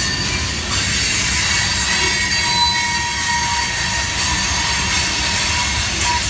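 Freight train tank cars rolling past with a steady rumble, the wheels giving a thin, high squeal.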